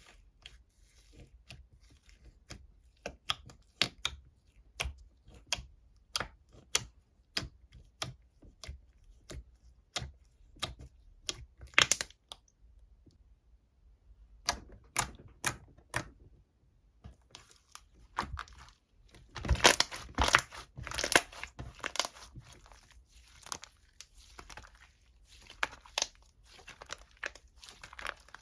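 Close-up crinkling and crackling as something is handled: a run of sharp separate crinkles, a short pause partway through, then a louder, denser burst of crinkling about two-thirds of the way in.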